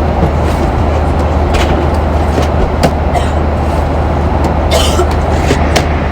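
Steady airliner cabin noise: a low drone of engines and airflow, with a few light clicks and rustles over it.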